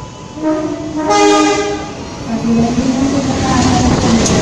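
Diesel locomotive sounding its horn as it pulls into the station, loudest about a second in. The locomotive then passes close by, with engine rumble and wheel noise building.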